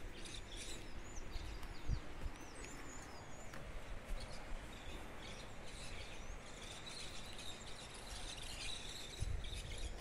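Wild birds singing and calling in a forest, many short high chirps and whistles that rise and fall, with a steadier high trill in the middle.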